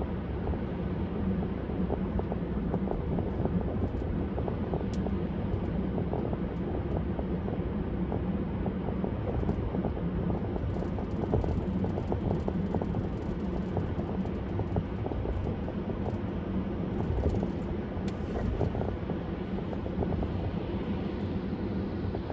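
Steady low rumble of a car driving, with engine and tyre noise and many faint small ticks throughout.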